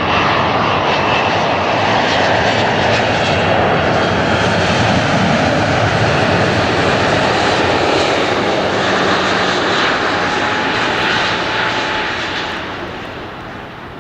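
Airliner's engines passing close by: a loud, steady rushing noise with a whine that falls in pitch in the first few seconds. It fades away near the end.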